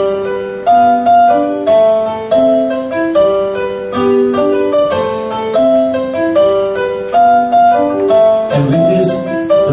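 Keyboard playing a salsa montuno: a repeating syncopated pattern of chords and single notes, set on the 2-3 clave.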